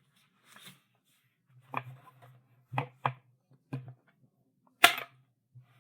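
Chalk tapping sharply on a blackboard, about five short knocks, with the loudest near the end.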